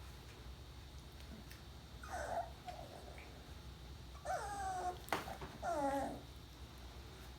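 Two-and-a-half-week-old puppies whining: about four short, high calls, the last two sliding down in pitch, with a single sharp click about five seconds in.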